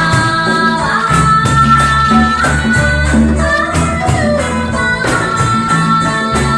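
Live band music with a steady beat, reggae-tinged, with percussion keeping time.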